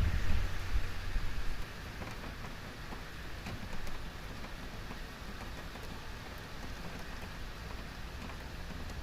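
Typhoon rain falling in a steady hiss with scattered drop ticks. For about the first second and a half, strong wind gusts buffet the microphone with a low rumble before it settles.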